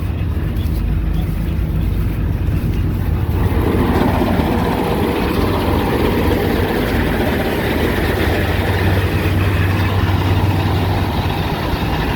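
Kartar tractor's diesel engine running with a steady low hum. It grows rougher and fuller about three seconds in.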